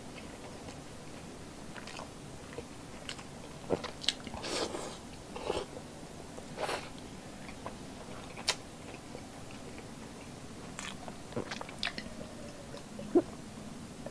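Close-miked mouth sounds of a person chewing soft, fatty milkfish belly and rice: irregular wet smacks and small clicks, the loudest a sharp click near the end.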